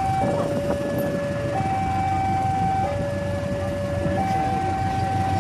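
Two-tone warning siren alternating between a low and a high note, each held about a second and a half, over a steady low rumble.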